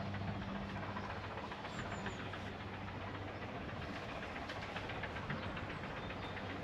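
Peckett 0-4-0T steam tank locomotive working hard uphill, its exhaust beating over a steady rumble of the engine and train. A low steady hum dies away about halfway through.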